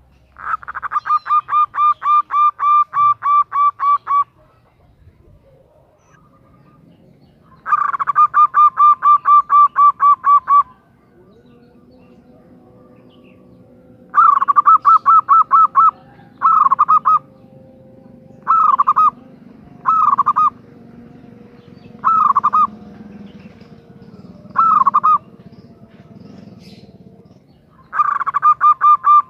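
Female zebra dove (perkutut) calling in rapid staccato series, quick even notes at about three to four a second: two long runs, then several short bursts of a few notes each, then another long run near the end.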